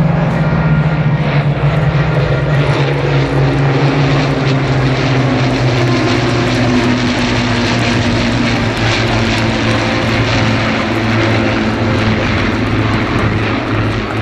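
Avro Lancaster bomber's four Rolls-Royce Merlin piston engines droning loudly in a flypast. The engine note sinks slowly in pitch over the first half, then holds steady as the aircraft moves away.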